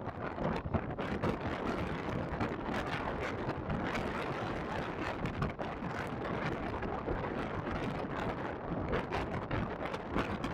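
Strong wind buffeting the microphone, a dense, fluttering rush of noise with no clear engine tone standing out.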